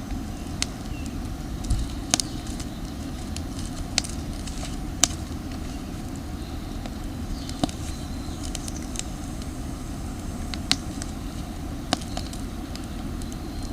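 Campfire of damp firewood crackling, with a sharp pop every second or two over a steady low rush.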